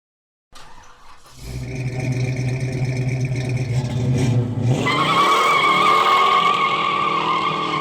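A car engine running at steady high speed, then revving up about five seconds in with a loud high squeal over it, like spinning tyres.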